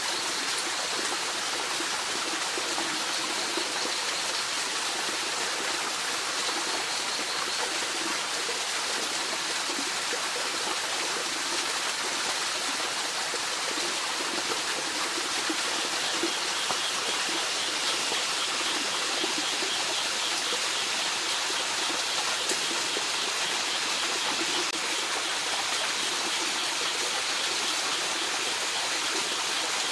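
Mountain stream flowing, a steady rush of water. A faint high, repeated trill joins about halfway through.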